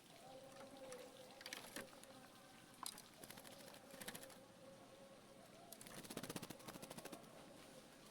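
Faint clicks and short high chirps from a caged oriental magpie-robin, with a quick rattling run of clicks about six seconds in, over a faint steady hum.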